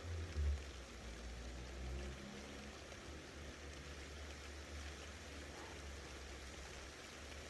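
Steady rain falling during a thunderstorm. A low rumble underneath is loudest about half a second in and eases off after about two seconds.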